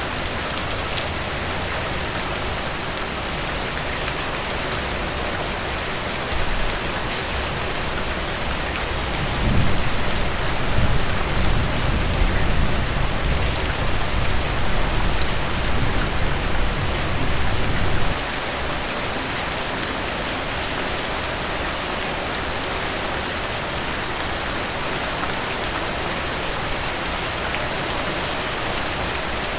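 Heavy rain falling steadily in a dense even hiss. About a third of the way in, a deep low rumble swells up under the rain for several seconds, then cuts off suddenly.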